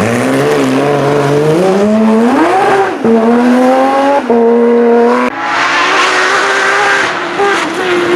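Porsche 911 GT3's flat-six engine accelerating hard through the gears, with revs dropping sharply at upshifts about three and four seconds in. About five seconds in it lifts off, and the engine runs at lower revs with short throttle blips under a hiss of tyre and gravel noise.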